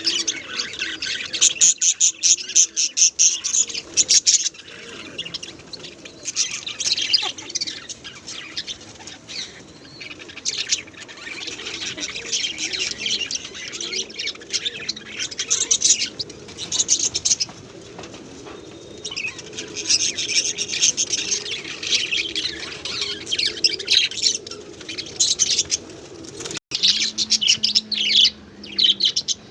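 Many small birds chirping and twittering in dense waves, with a low cooing underneath.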